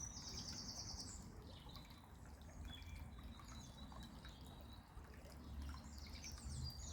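Songbirds singing, with a fast trill in the first second and then thinner high notes, over the faint babbling of a brook and a low rumble.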